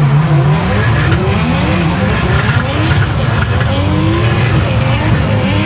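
Turbocharged Nissan CA18 four-cylinder engine revving hard, its pitch climbing and dropping again and again as the throttle is worked through a drift, heard from inside the car.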